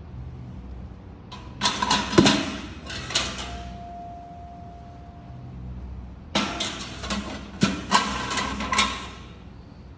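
Metal fireplace tools, tongs and the like, clanking and rattling against a metal bucket as they are handled, in two bursts of clatter several seconds apart.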